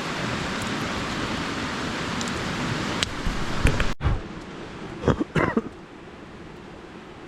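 Creek water flowing steadily, with a few sharp knocks about three seconds in. The sound cuts off abruptly about four seconds in, leaving a quieter background with a couple more knocks.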